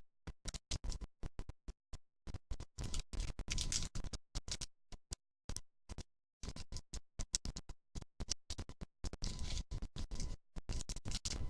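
Choppy, broken-up audio: short bursts of scratchy handling noise from trading card packs and cards, cut over and over by sudden dropouts to silence.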